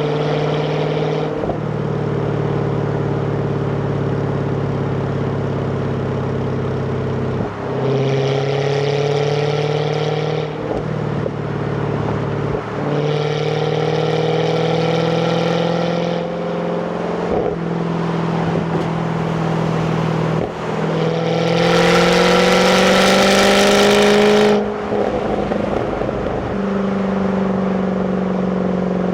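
Jaguar F-Type 5.0's supercharged V8 on its stock exhaust, accelerating through the gears. The engine note rises in pitch several times, with short dips at each gear change, and the strongest, loudest pull comes about two-thirds of the way through.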